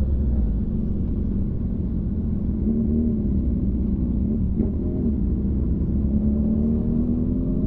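Motorcycle engine running at a steady cruise, heard from the riding bike with low road and wind rumble, its pitch rising gently near the end as it picks up speed.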